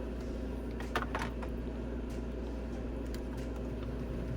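A few light clicks and taps of plastic makeup packaging being handled and set down, the clearest pair about a second in, over a steady low hum.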